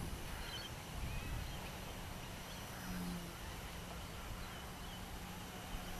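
Wind buffeting the microphone with a low rumble, over the faint steady hum of a small electric RC helicopter flying at a distance; the hum swells briefly about three seconds in.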